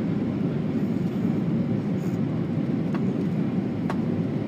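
Steady low rumble of an Airbus A320 cabin in flight, from engine and airflow noise, with two faint clicks about three and four seconds in.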